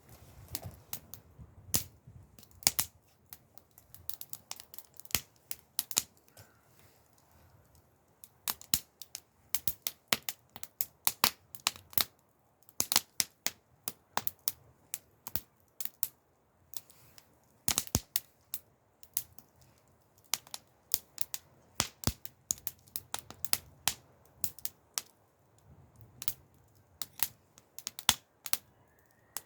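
Wood fire crackling: irregular sharp pops and snaps, several a second at times, some much louder than the rest.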